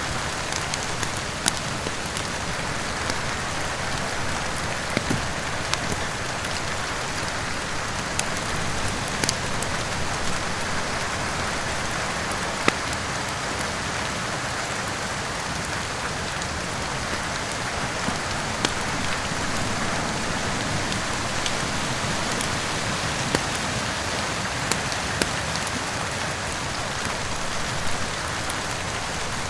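Steady rain, with sparse, irregular sharp pops from a crackling wood fire.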